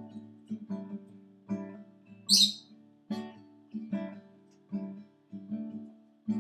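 Acoustic guitar strumming chords in a steady rhythm. About two seconds in, a pet lovebird gives one short, loud, high chirp over it.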